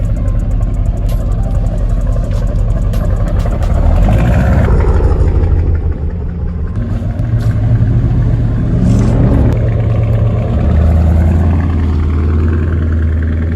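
Dodge Charger Scat Pack's 392 HEMI V8 running, its low exhaust note shifting up and down in pitch a few times as the revs change.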